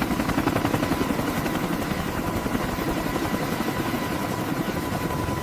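Helicopter running: rapid, even rotor pulsing with a thin steady whine on top. It cuts in suddenly at the start.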